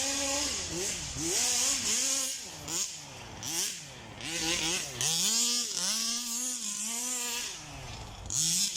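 Small two-stroke engine of a 1/5-scale Rovan Baja RC buggy, a Zenoah G320 with a VRC big-bore exhaust, revving up and dropping back again and again under bursts of throttle, with a longer high rev held in the middle.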